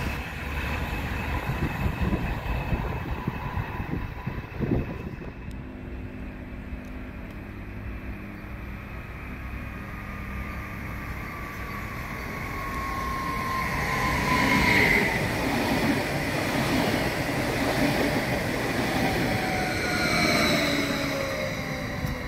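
Another train's rumble fades over the first few seconds. Then a nordbahn Stadler FLIRT electric multiple unit comes into the station, its wheels rumbling louder as it nears and its motor whine falling in pitch as it brakes.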